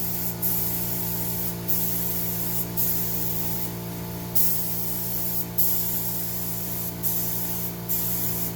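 Paint sprayer spraying a light coat of PVA mould release: a steady hiss that breaks off briefly about once a second, over the sprayer's steady motor hum.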